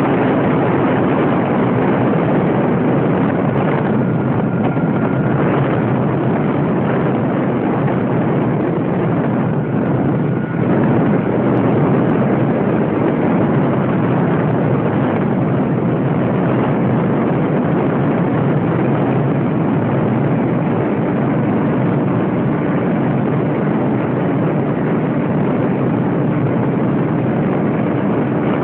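Radio-controlled model airplane in flight, its motor and propeller running steadily under a constant rushing noise.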